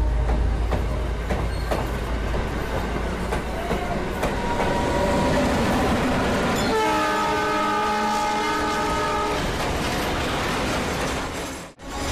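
Train running on rails with its wheels clattering, and a train horn sounding one steady blast of about two and a half seconds in the middle. The sound drops out sharply for a moment near the end.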